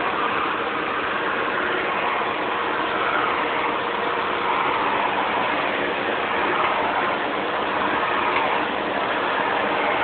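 Vacuum cleaner running steadily: an even rushing noise that wavers a little in pitch.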